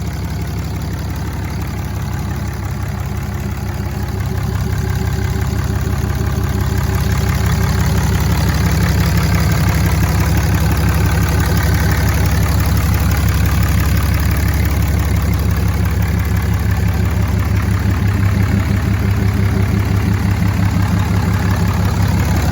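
The 6.7-liter Cummins turbo diesel engine of a 2008 Dodge Ram 3500 idling steadily. It grows a little louder about five seconds in, then holds even.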